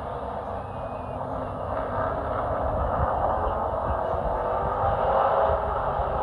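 Chevy race truck's engine running hard under green-flag racing, a steady loud drone that builds slightly in level, heard from inside the cab.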